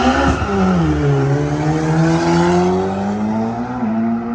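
A car engine under power at a drag race: its note drops about a second in, as at a gear change, then climbs slowly and steadily as the car accelerates.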